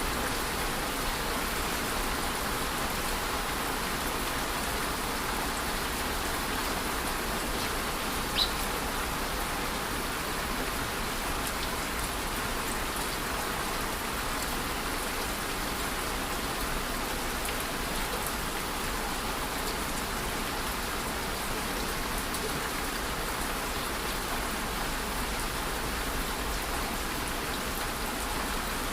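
Steady rain falling, an even hiss of drops on a surface, with one sharper tick about eight seconds in.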